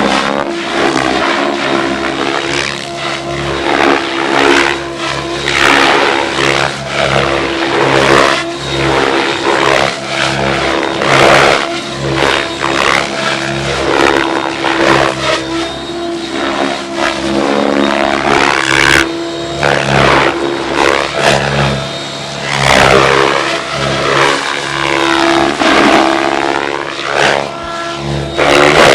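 RC helicopter flying 3D aerobatics, its rotor and motor whine going up and down in pitch with repeated passes and sharp manoeuvres.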